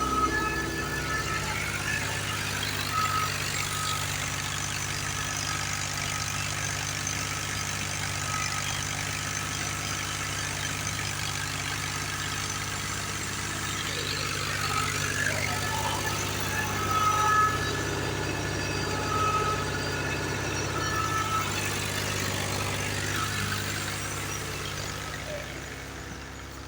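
Tractor engine running steadily at a constant speed, with a higher mechanical whirr and rattle over it. The engine drone falls away near the end.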